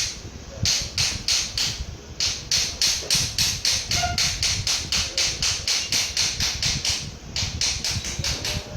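Rapid back-and-forth scrubbing strokes, about four a second, with short pauses about two seconds in and about seven seconds in.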